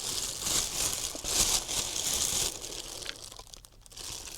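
Thin plastic dog-waste bags crinkling and rustling as they are handled and filled with chopped mackerel pieces, quieting briefly near the end.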